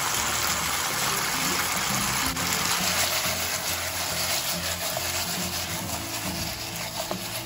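Sliced pork and green bell pepper strips sizzling in a hot frying pan in a wine and oyster sauce liquid as they are stir-fried, a steady hiss throughout.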